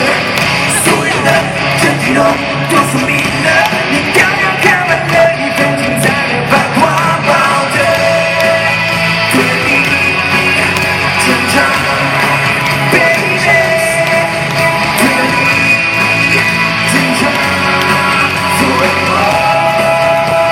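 Live rock band with a male lead vocalist singing loudly over drums and electric guitar, in the echo of a large arena.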